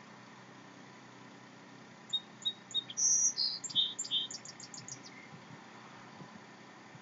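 A songbird singing one phrase of about three seconds: a few thin high notes, then louder notes stepping down in pitch, ending in a quick run of high notes.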